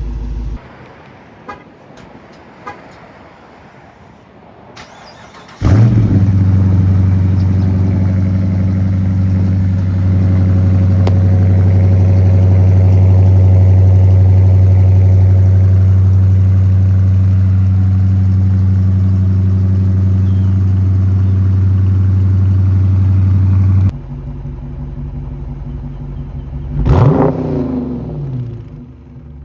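A 2023 Dodge Charger R/T's 5.7-litre HEMI V8 on its stock exhaust, starting about six seconds in and holding a steady, loud fast idle. Near the end it is revved twice, each rev rising and falling quickly.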